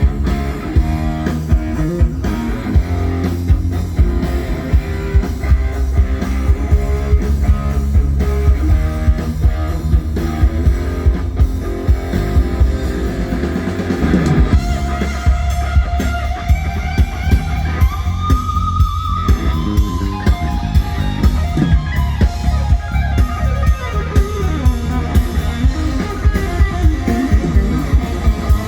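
Live band playing a pop-rock song in a sound-check run-through: drum kit keeping a steady beat under electric guitar and bass guitar.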